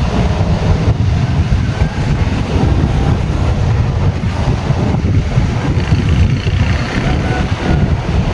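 A track motor car running on rail, a loud uneven low rumble with heavy wind buffeting the microphone.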